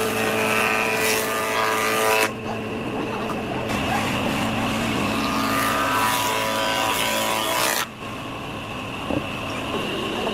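A motor running with a steady whine, its sound changing abruptly about two seconds in and again near the end.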